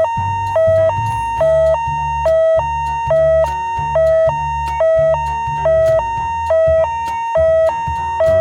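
Two-tone emergency vehicle siren in a hi-lo pattern, switching evenly between two pitches with each note held about a third of a second, over a low steady rumble.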